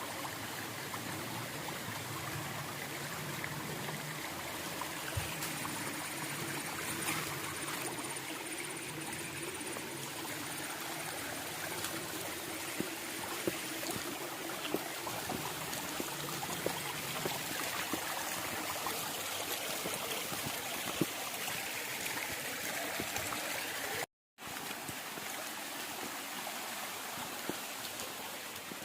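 Steady rush and trickle of a shallow stream sliding over the sloping rock slab of a small waterfall. The sound cuts out for a moment about 24 seconds in.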